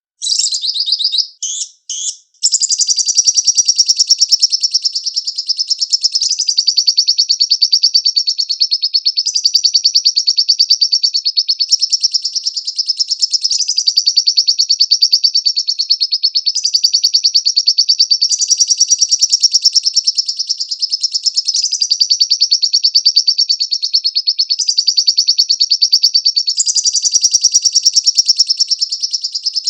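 Lovebird singing a long, very rapid, high-pitched chattering trill. It begins with a few short bursts, then runs on unbroken.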